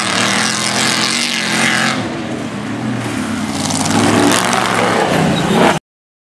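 Off-road race truck engines running hard, revving up and down and getting louder near the end, then cut off abruptly to silence.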